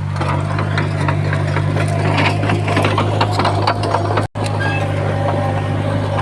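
Heavy earthmoving machine's engine running steadily under load, with irregular metallic clanking and rattling over it. The sound cuts out for an instant a little after four seconds in.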